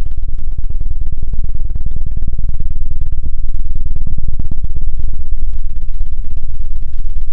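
ASMR 'helicopter' ear-cleaning sound: a rapid, dense fluttering of deep thumps on the microphone, like rotor blades, loud and steady.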